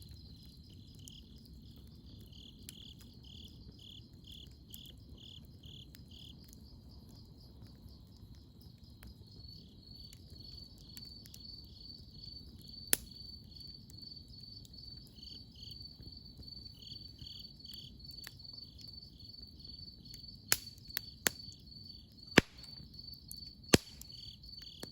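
Insects trilling steadily in a high, even tone with a slower pulsing chirp beneath it, over a low, even background hiss. From about halfway in, a campfire gives about six sharp pops, most of them bunched near the end.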